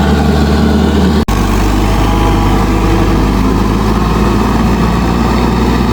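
Mahindra 585 DI tractor's four-cylinder diesel engine running steadily. It breaks off for an instant about a second in, then runs on with a slightly changed note.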